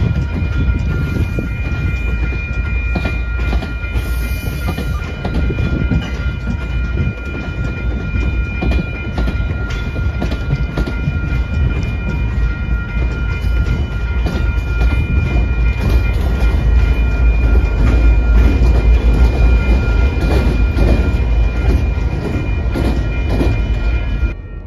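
MBTA commuter rail train of bilevel coaches passing close by: heavy wheel rumble and clicking over the rail joints, with a steady high whine running through. It grows loudest in the last third as the diesel locomotive at the tail end of the train goes past.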